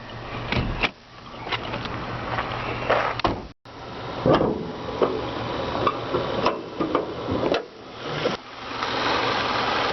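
Clicks and clunks of a car's hood being released and lifted open, with the latch and hood metal knocking several times.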